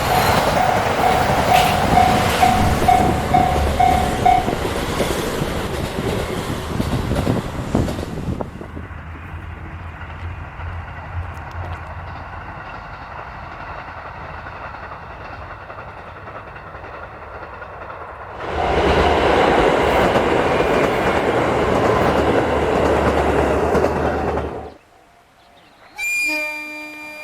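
Train running on rails, with a ringing tone pulsing about twice a second over it for the first few seconds. The train noise drops back, swells loud again about two-thirds in and cuts off suddenly, followed near the end by a short pitched sound with several tones.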